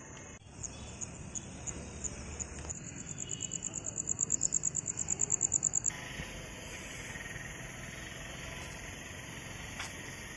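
Cricket chirping in high, sharp pulses, at first about three a second, then quickening to about nine a second and growing louder, cut off abruptly about six seconds in. After that comes a steady outdoor hiss.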